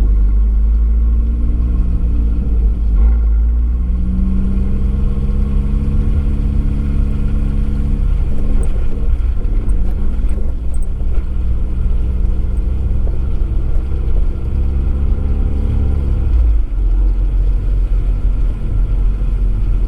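Abarth 595 esseesse's turbocharged four-cylinder engine and Akrapovič exhaust running at a fairly steady engine speed over a heavy low rumble of road noise, picked up by a microphone in the boot. The engine note shifts a little a few times and changes about sixteen seconds in.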